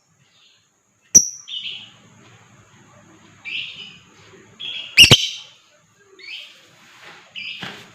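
Lovebird giving short, harsh chirping calls in about six separate bursts. Three sharp clicks fall among them, the first two the loudest sounds.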